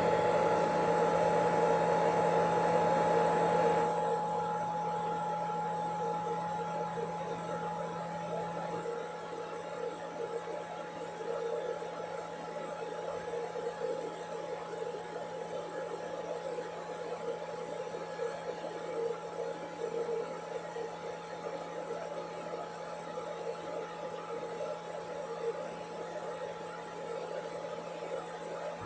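Steady whirring hum of a running electrical appliance, with a constant low tone and a higher whine. It is louder for the first four seconds, then settles to a quieter, even level.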